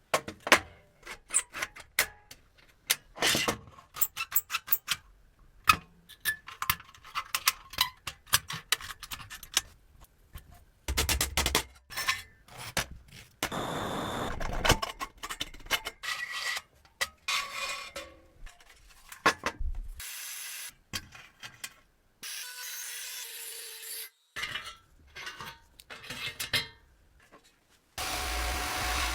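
Hand work on rusty metal: a quick run of sharp taps and knocks, then stretches of rubbing and scraping like filing or sanding, chopped into short pieces with sudden cuts between them. A steady machine noise starts near the end.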